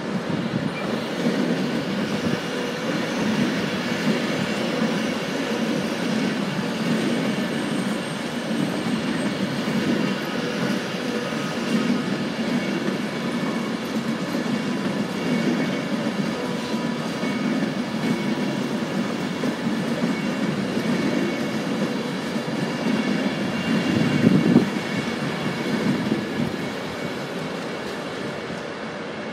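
Avanti West Coast Class 390 Pendolino electric train running slowly past, its wheels rumbling and clattering over the rail joints and points, with a faint steady whine above. A louder clatter comes near the end.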